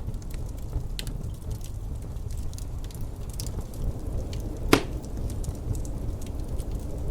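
Wood fire crackling in a fireplace: scattered small crackles and one loud sharp pop about two-thirds of the way through, over a steady low rumble of wind.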